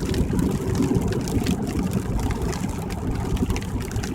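Steady low rumble of road and tyre noise heard inside a car's cabin on a rain-wet highway, with faint scattered ticks.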